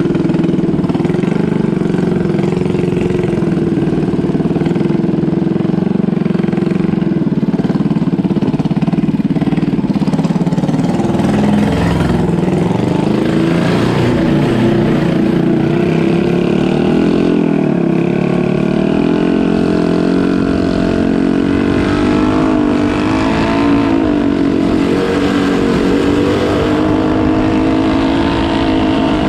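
Boat engine running steadily and loudly, its pitch rising and falling several times in the second half.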